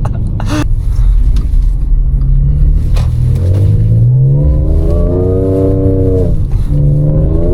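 Supercharged V6 of a Stage 1 tuned Audi S5 pulling hard under acceleration. Its note climbs steadily through a gear, falls away at an upshift about six seconds in, then starts climbing again.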